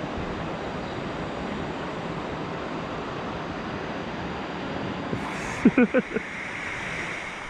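Steady rush of falling water, starting abruptly. A few short voice-like sounds come about five and a half seconds in.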